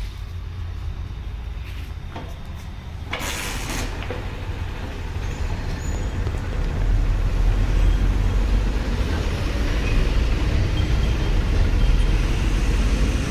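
A Hero Honda CBZ Xtreme motorcycle's single-cylinder engine running with a steady low rumble. There is a brief burst of noise about three seconds in, and it gets louder from about seven seconds in.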